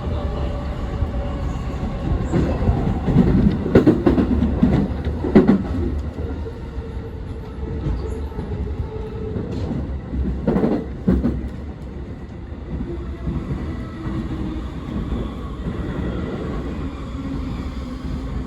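Yokosuka Line commuter train running, heard from inside the car: a steady low rumble of wheels on rail, with bursts of clattering over the track a few seconds in and again about halfway through.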